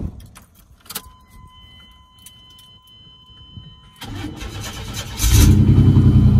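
1994 GMC 1500's 4.3-litre V6 being started: a key click, a steady warning tone, then the starter cranks for about a second before the engine catches and settles into a loud, steady idle. The exhaust is a little loud through the muffler, with no catalytic converters fitted.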